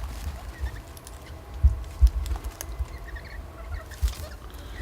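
Birds feeding: scattered light taps and clicks of pecking at food, with a few faint short chirps and low rumbling thumps.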